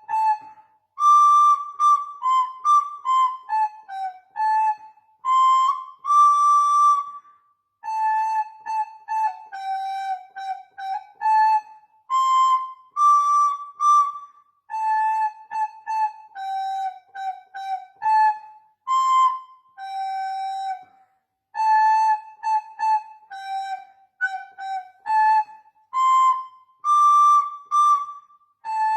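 Solo flute playing a simple melody unaccompanied: short tongued notes stepping up and down within a narrow range, grouped into phrases with brief pauses for breath between them.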